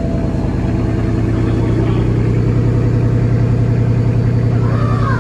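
Car engine idling steadily, slowly growing louder.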